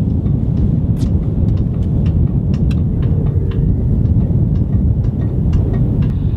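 Strong wind buffeting the microphone, a loud steady low noise, over a series of faint sharp pops from a pickleball striking a paddle and bouncing on a hard court.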